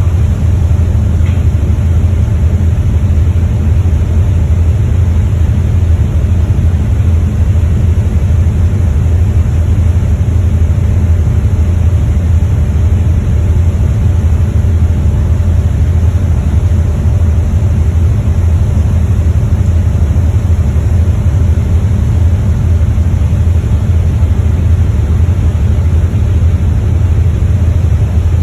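Loud, steady low rumble and rushing noise aboard a ferry underway, unchanging throughout.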